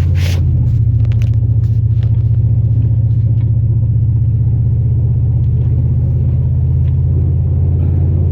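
The 2002 Chevrolet Silverado's 8.1-litre big-block V8 running steadily as the truck drives, a loud, even low drone heard from inside the cab. There is a brief knock right at the start.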